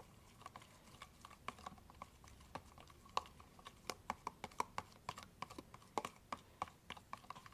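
A utensil stirring watered-down glue in a container, clicking and tapping against its sides in quick, irregular strokes.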